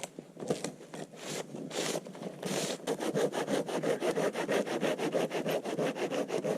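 Hand saw cutting a log held in a wooden sawhorse. It starts with a few slower strokes, then settles into a quick, even back-and-forth rhythm about three seconds in.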